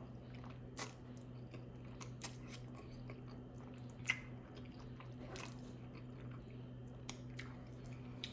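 A person chewing food with short, wet mouth clicks and smacks scattered through, the sharpest about four seconds in. A steady low hum runs underneath.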